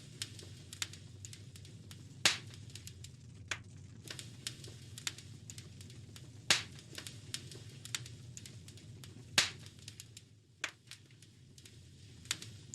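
Wood fire crackling in a fireplace: irregular small snaps and pops, with three louder pops spaced a few seconds apart, over a steady low rumble.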